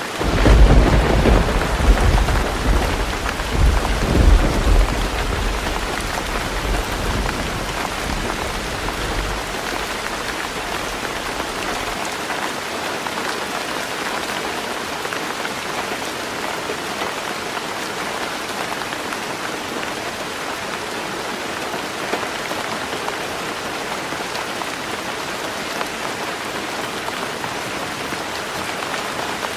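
Heavy rain falling steadily on a roof. A deep rumble of thunder breaks in at once, is loudest in the first five seconds, and fades away over about ten seconds.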